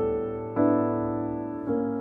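Background piano music: slow chords struck about every second, each ringing and fading.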